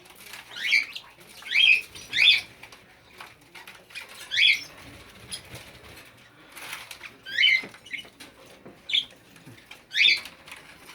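English budgerigars chirping: short sharp calls every second or two, about seven in all, with faint clicks and scratches between.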